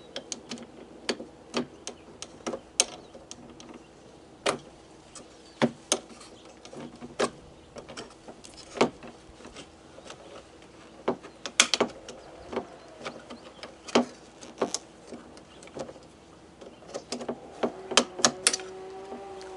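Irregular sharp clicks and taps of a tool on metal as a stiff retaining clip is worked off the lock cylinder of a pickup truck's exterior door handle.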